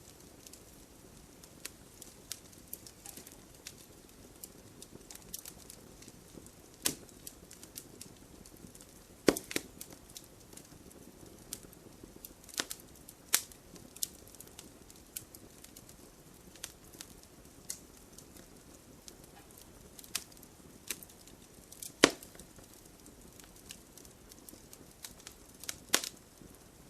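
Wood fire in an open fireplace crackling, with irregular sharp pops over a faint low hiss; the loudest pops come about nine seconds in and again about twenty-two seconds in.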